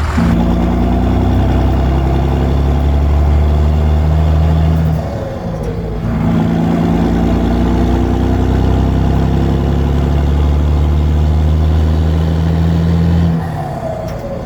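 Vehicle engine running steadily under load. Its note drops away and comes back twice, about five seconds in and again near the end, like a gear change.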